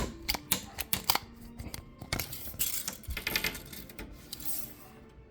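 A metal tape measure and plywood pieces being handled while measuring: a quick run of sharp clicks and knocks, then a few scraping, sliding sounds that fade away.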